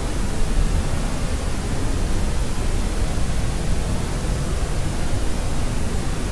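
Steady sleep white-noise track: an even, unbroken rushing hiss, fullest in the low end like pink noise, with no crying or other event standing out.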